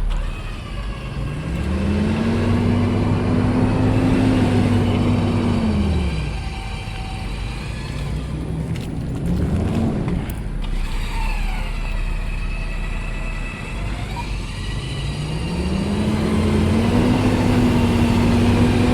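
A vehicle engine revving under load during a stuck-truck recovery. It rises in pitch and holds for several seconds, drops back, blips briefly, then revs up and holds again near the end. A few faint clicks come in the middle.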